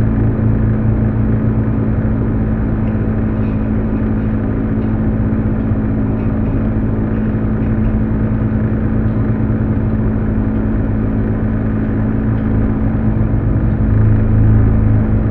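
Car's engine and road noise heard from inside the cabin while driving slowly: a steady low drone, growing a little louder near the end.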